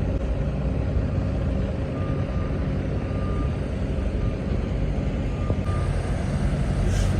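Heavy diesel truck engine idling with a steady low rumble, while a reversing alarm beeps faintly several times between about two and six seconds in.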